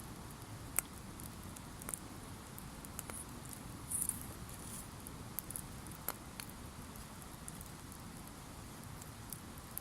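Wood campfire crackling, with scattered sharp pops and a short hiss about four seconds in.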